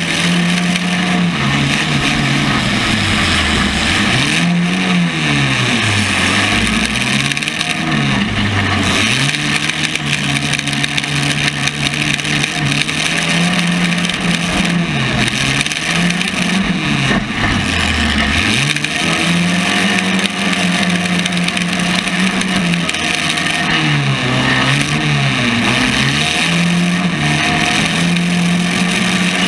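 Compact car engine revving up and down over and over, at times holding high revs for a few seconds, with a steady hiss behind it.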